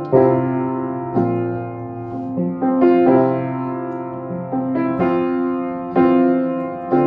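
Piano playing an instrumental passage between sung lines: chords struck about once a second, each ringing on and fading before the next.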